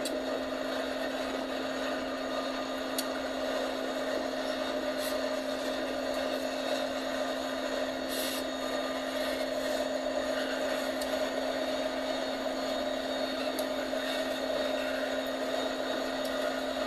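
Train running with a steady mechanical drone and a constant low hum, with a few faint clicks.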